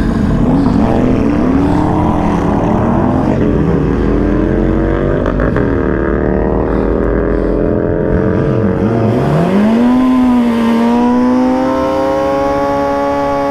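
Sport-bike inline-four engine revving, its pitch rising and falling several times, then dropping low and climbing to a steady high rev about ten seconds in, held there as if for a drag-strip launch.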